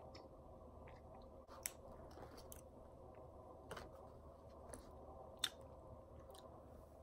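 Faint chewing of a peanut butter chocolate chip cookie, with a few short sharp clicks scattered through it, the loudest about five and a half seconds in.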